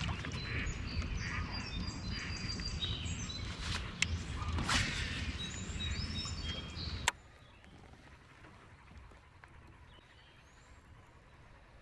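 Small birds chirping and tweeting over a low rumbling noise, with a few sharp clicks. About seven seconds in the rumble cuts off abruptly, leaving fainter chirps.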